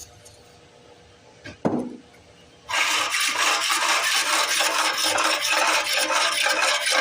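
Aerosol spray lubricant hissing in one long, loud burst from about 3 seconds in, sprayed into the starter pull-rope area to free a stiff, hard-to-pull recoil rope. A brief knock about 1.7 seconds in comes before it.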